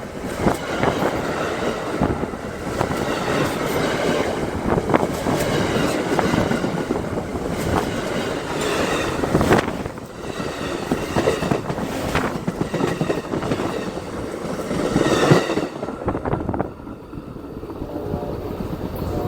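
Freight train rolling past, its wheels clattering over rail joints in a clickety-clack, with steady rumble. The sound drops off sharply near the end.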